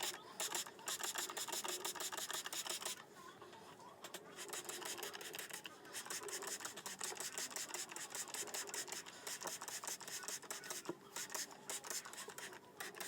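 Rapid scratchy rubbing of hair being handled and brushed close to the microphone, with a quieter pause about three seconds in.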